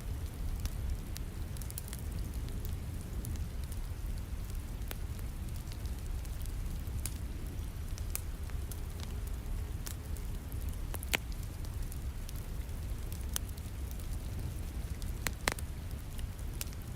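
Wood fire crackling in a fireplace, with scattered sharp pops over a steady rain hiss and low rumble. Two louder pops come about eleven seconds in and near the end.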